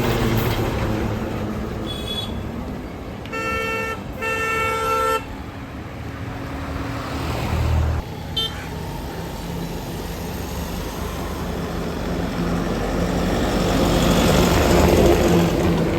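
A vehicle horn sounds twice in quick succession a few seconds in, over steady road traffic and engine noise. The traffic noise swells near the end as a vehicle passes close.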